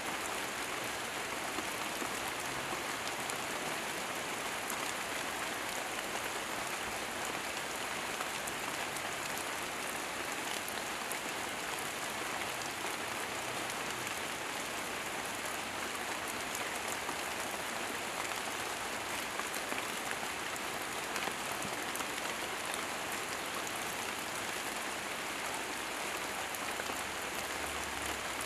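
Steady rain falling on leaves and foliage: an even hiss with fine drop ticks, unchanging in strength.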